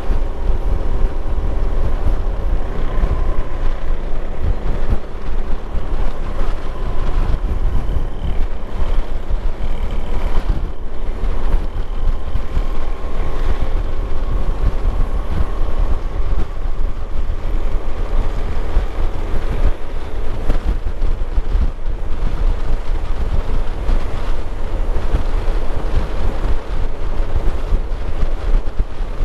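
Motorcycle engine running steadily while riding, its pitch drifting slowly up and down, under heavy wind buffeting on the microphone.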